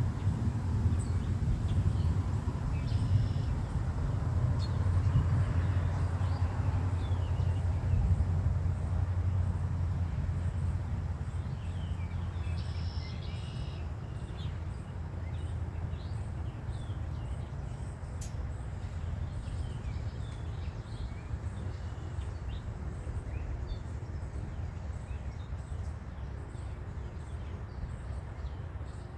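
Birds chirping in short calls now and then over a low rumble. The rumble is strongest in the first ten seconds or so, then slowly fades.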